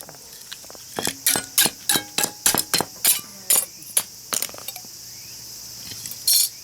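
Hammer blows on a steel chisel driven into a small transformer's core: about eleven sharp metallic strikes at roughly three a second, then a short clatter near the end. Crickets chirr steadily behind.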